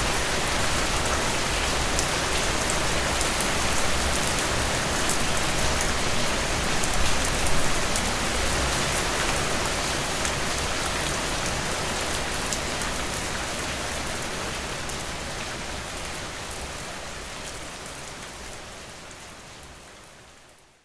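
Steady rain falling on a surface, with scattered close drop ticks, fading out slowly over the last ten seconds or so to silence.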